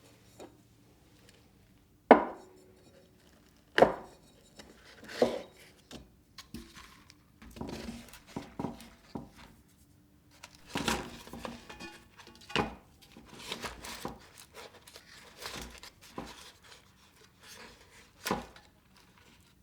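Irregular knocks and clatter of kitchenware being handled on a counter, with the two sharpest knocks about two and four seconds in.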